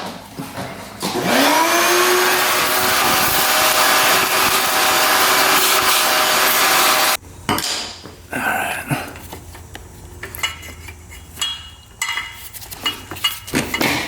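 An electric motor whines up to speed about a second in, runs steadily for about six seconds, then cuts off suddenly. After it come light metallic clinks and rattles of hand tools and parts.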